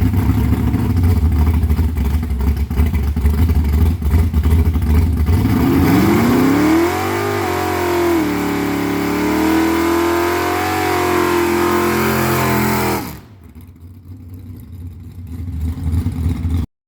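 Hot-rodded 350 small-block Chevy V8 running with a deep rumble. About six seconds in the revs rise and then hold at a steady higher speed. Near the end the sound drops off abruptly to a much quieter level.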